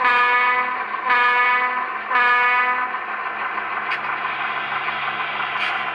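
An HO scale model diesel locomotive's sound decoder blowing its horn three times in quick succession, the three-blast signal for backing up. Afterwards the model's diesel engine sound runs on steadily, with a faint click about four seconds in.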